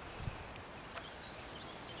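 A single low footstep thud about a quarter second in and a faint click about a second in, over a quiet hiss. A few faint, short, high bird chirps.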